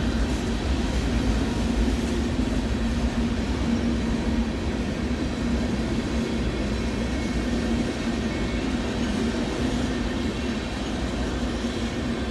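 A train passing close by, its cars rolling over the rails in a steady rumble.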